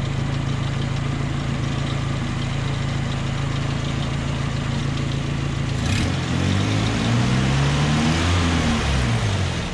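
1988 Nissan D21 pickup's engine idling steadily, then revved about six seconds in, its pitch rising and falling over about three seconds before it settles back to idle.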